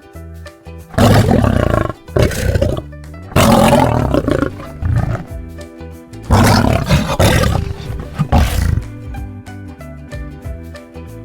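Lion roaring, three loud roars in a row, over light background music.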